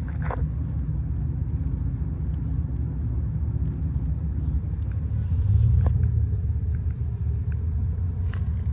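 A vehicle's engine rumbling low and steady, swelling briefly about five and a half seconds in.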